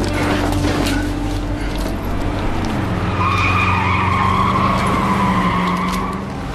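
A car engine running, its pitch dropping about two and a half seconds in, then tyres squealing for about three seconds.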